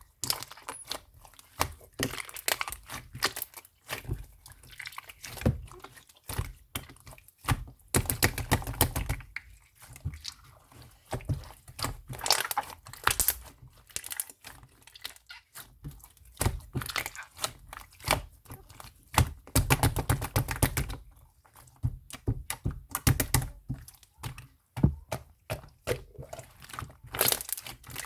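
Slime being squished, pressed and stretched by hand, giving runs of quick clicking and crackling pops, with denser clusters about a third of the way in and again past the middle.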